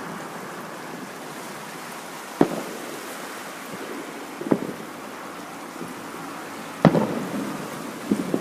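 Fireworks shells bursting in the distance: four sharp booms a couple of seconds apart, each with a short rumbling tail, the third the loudest, over a steady rushing background noise.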